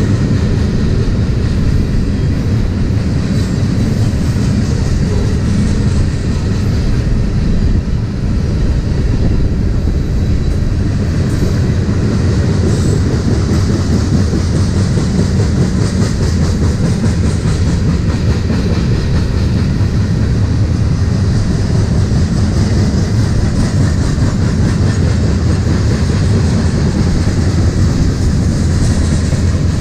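A long freight train of covered grain hopper cars rolling past at speed, wheels clattering steadily over the rails.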